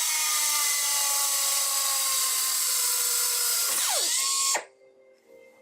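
Rockwell pneumatic 90° angle drill running with a loud air hiss and motor whine, drilling a hole. Its pitch sags slowly as the bit cuts, dips and picks back up near the end, then stops abruptly about four and a half seconds in.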